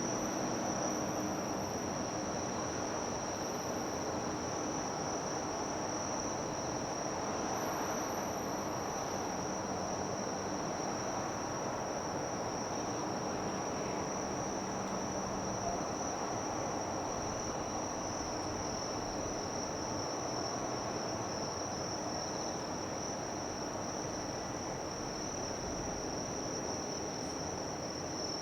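Insects chirring in one steady, unbroken high-pitched note over a constant low rumble of harbour noise.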